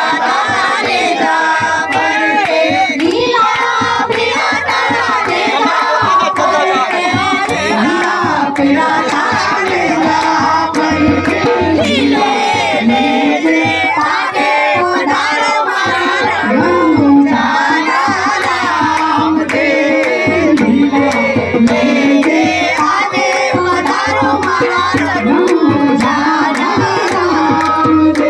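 Gujarati folk ensemble music: a dhol drums a fast, steady beat under a wavering, ornamented melody.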